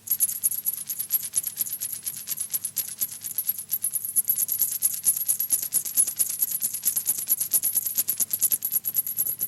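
A rapid, even run of bright high percussion strikes, about nine a second, starts abruptly, with a steady low hum underneath.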